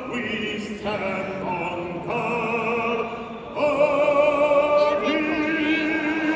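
Operatic-style singing: a voice holding long notes with a wide vibrato, in several phrases with short breaths between them.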